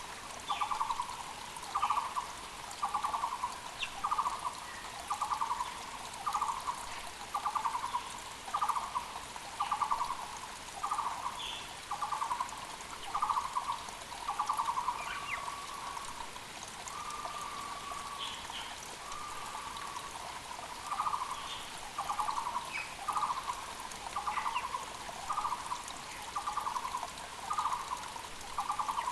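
Muller's barbet (Taiwan barbet) calling a long series of evenly repeated notes, about three every two seconds, drawn out into longer notes for a few seconds in the middle. Other small birds chirp briefly over a steady mountain creek.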